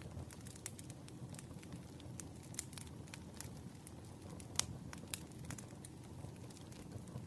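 Wood fire burning with a low, steady rumble and scattered sharp crackles and pops, one louder pop about halfway through.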